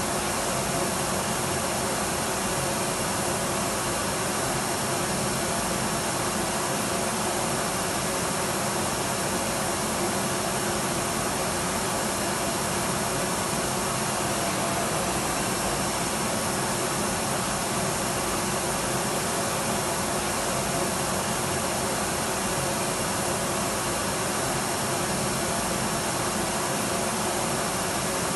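Electric vacuum cleaner running steadily, a constant rushing noise with a faint motor hum and no change in pitch or level.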